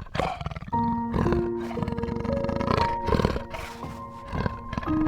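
Repeated harsh animal calls over background music of held notes that comes in about a second in.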